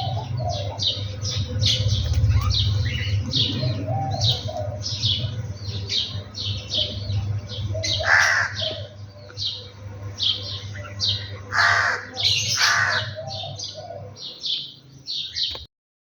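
Birds calling in the morning: a fast, even run of short high chirps, about three a second, with a few louder, harsher, crow-like calls about halfway through and again near the end. The sound cuts off suddenly just before the end.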